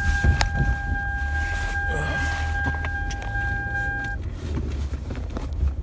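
Car's seatbelt warning tone sounding steadily over the low idle of the engine in the cabin, cutting off suddenly about four seconds in as the belt is fastened. Scattered clicks and rustles of movement are also heard.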